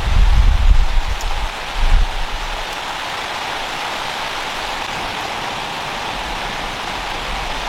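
Steady rain falling in a storm. A low rumble sits under it and fades out about two seconds in.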